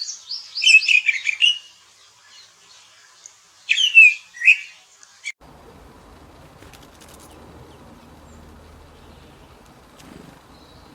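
A small songbird calling in quick bursts of chirps and sweeping notes, loudest about one second and four seconds in. About five seconds in the sound cuts off abruptly to a faint, even background hiss with a low hum.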